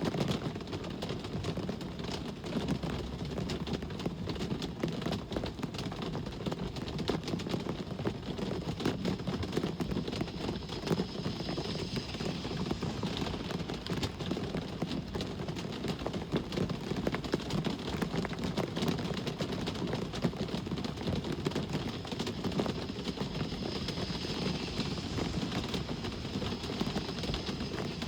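Steady rain with a dense patter of drops, over a low rumble of traffic, with a hiss of passing vehicles swelling twice.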